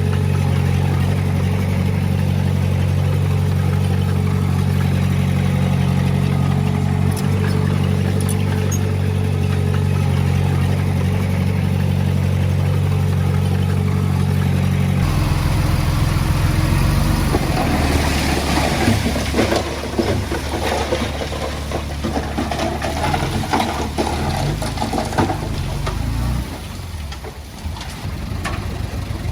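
Heavy machine's diesel engine running steadily. About halfway in the sound changes abruptly to an engine working under load, with dense rattling and scraping.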